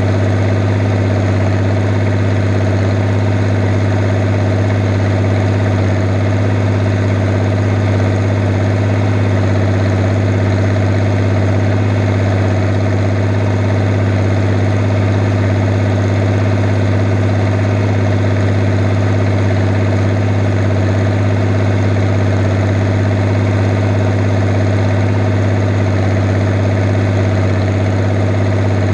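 Fiat 110-90 tractor's diesel engine running at a steady, unchanging speed while pulling a plough, with a strong low drone throughout.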